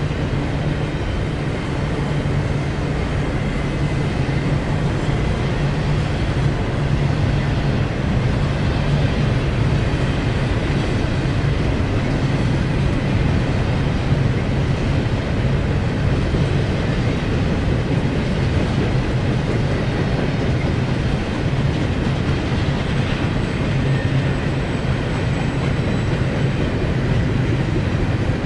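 Double-stack intermodal container cars of a freight train rolling past on the rails: a steady, continuous rumble of wheels on track.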